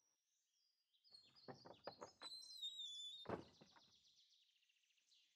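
Faint birdsong: quick chirps and a wavering whistled note. Beneath it come a few soft knocks and a louder thump a little after three seconds in.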